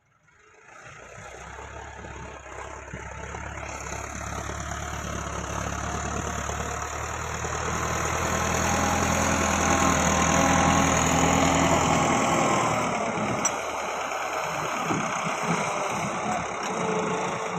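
Massey Ferguson 385 tractor's diesel engine running at a steady pitch, growing steadily louder over about ten seconds. Near the end its low drone drops away, leaving a rougher, noisier sound.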